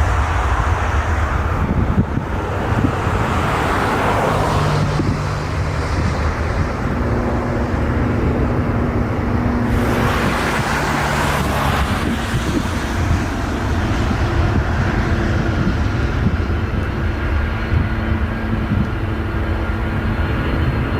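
Jet airliner engines rumbling loudly and steadily, with wind buffeting the microphone. Hissing surges come in the first few seconds and again about ten seconds in.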